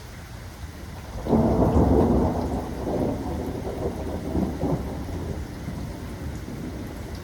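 Steady rain with a clap of thunder about a second in, rumbling loudly at first and then dying away slowly over several seconds.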